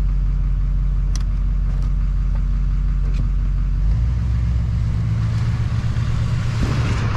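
Duramax diesel pickup engine running steadily, with a few light clicks in the first few seconds. About four seconds in the engine note changes, and a hiss builds over the last couple of seconds.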